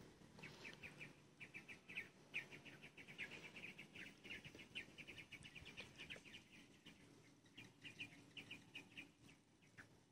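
Faint bird chirping: quick runs of short, high notes, several a second, broken by brief pauses, over a faint low hum.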